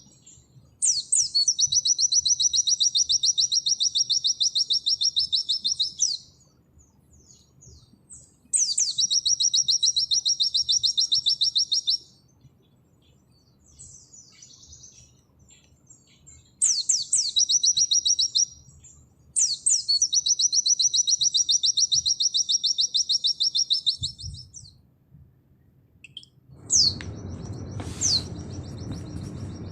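A white-eye (pleci) sings in long, rapid, high trilled phrases, each opening with a quick downward sweep, with short pauses between. Near the end a steady low background noise comes in and a sharp click sounds once.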